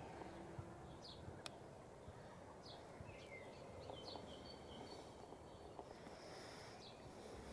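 Quiet outdoor background with a bird's faint, short, high chirps, each falling in pitch, repeated about once every second or two.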